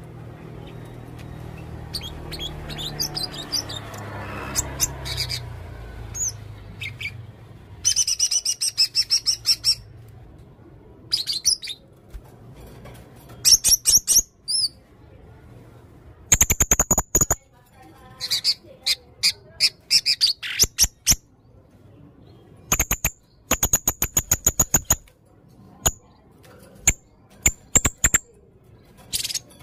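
Serindit (blue-crowned hanging parrot) singing in repeated bursts of rapid, sharp, high chirps and trills, each one to two seconds long with short pauses between. A low hum lies under the first several seconds.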